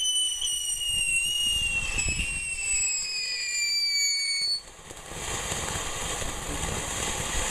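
A whistling firework giving one long, slowly falling whistle that stops suddenly about four and a half seconds in, followed by a steady hiss.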